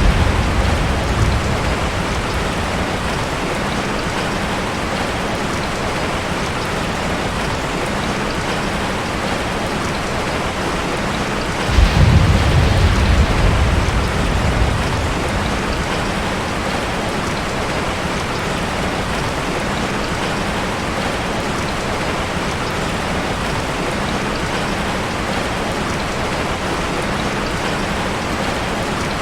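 Heavy rain falling steadily, with a sudden low roll of thunder about twelve seconds in that fades over a few seconds, and the tail of another rumble dying away at the start.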